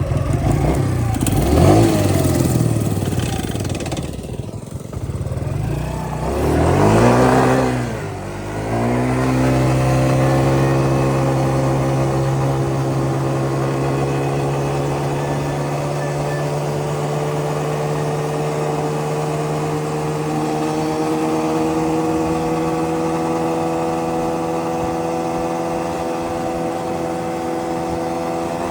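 Yamaha Grizzly 125 ATV's small single-cylinder four-stroke engine revving up and down through the first several seconds, then settling into a steady drone while cruising, its pitch creeping slightly higher near the end.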